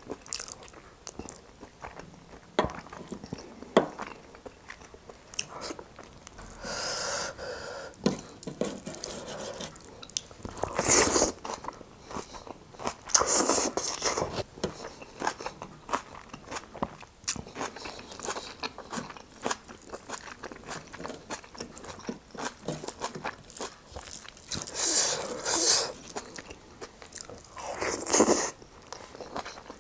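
A person eating by hand: wet chewing and mouth clicks on mouthfuls of rice and pork trotter, with several louder slurping sucks, one near the end as the fingers go to the mouth.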